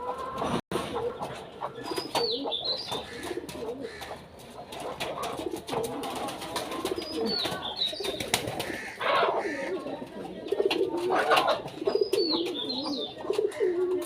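A flock of domestic pigeons cooing repeatedly in low, warbling calls, with scattered clicks and scuffles from the birds moving about.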